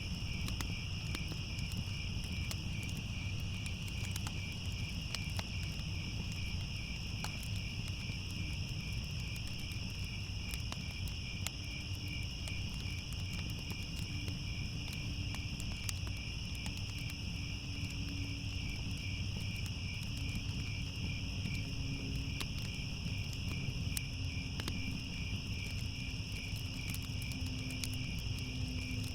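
Crickets chirping in a steady, continuous chorus, with a fire crackling underneath in scattered sharp pops over a low rumble.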